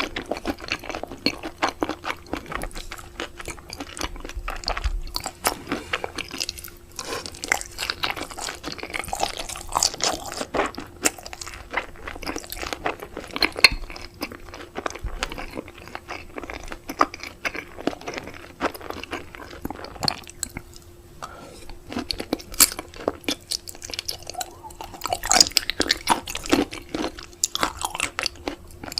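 Close-miked chewing of raw seafood, a dense run of short wet crunches and clicks, with a faint steady hum underneath.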